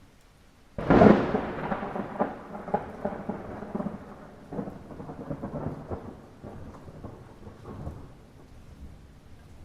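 Light rain with a sudden thunderclap a little under a second in, cracking loudly and then rolling and crackling away, fading over several seconds.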